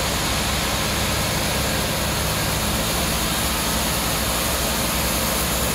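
A sawmill's engine running steadily with a low, even hum and no changes.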